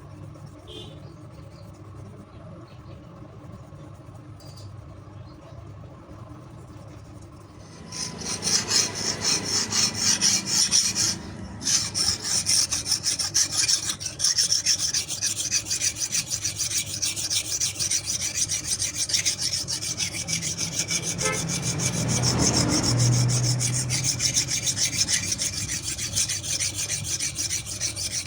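A steel knife blade being finished by hand with fast abrasive strokes, a dense rasping scrape that starts about eight seconds in. It pauses briefly near twelve seconds, then keeps going.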